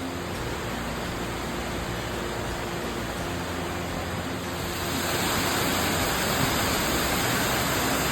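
Waterfall rushing in a steady, dense roar of falling water; about five seconds in it grows louder and brighter.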